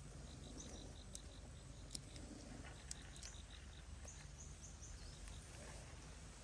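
Faint, steady insect chirping, about five short high pulses a second, over a low hiss. There are a few sharp ticks, and a quick run of four higher chirps a little past the middle.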